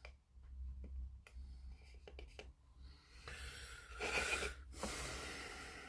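Masking tape being handled: a few small clicks, then a longer rasping noise of tape being pulled, about three seconds in and again nearly a second later.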